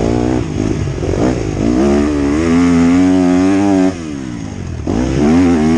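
Motocross bike engine on the throttle: a few short rising revs, then held high, cut off sharply about four seconds in and opened up again a second later.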